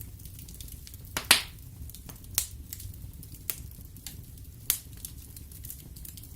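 Wood fire burning in a fireplace: a steady low rumble of the flames under constant small crackles of the wood, with four louder pops, the loudest about a second in.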